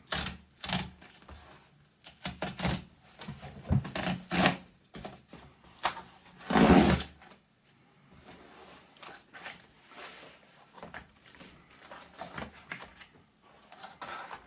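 Packaging being handled and opened by hand: a run of irregular clicks, taps and crinkling rustles. One louder, longer rustle comes about six and a half seconds in.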